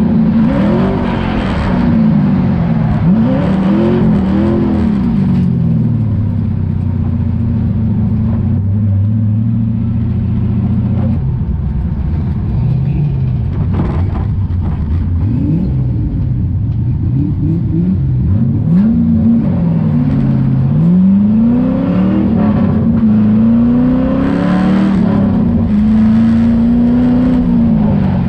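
LM7 5.3-litre LS V8 engine heard from inside the car's cabin, revving up and falling back again and again as it is driven hard. About a third of the way in it holds a steadier, lower pitch for several seconds, then the repeated rising and falling revs resume.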